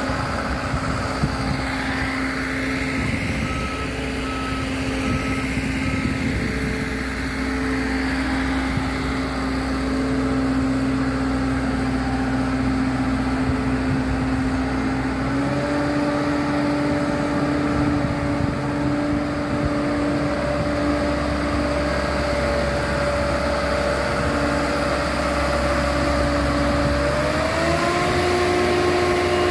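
An engine running steadily, its pitch stepping up once about halfway through and again near the end, with a short series of beeps a few seconds in.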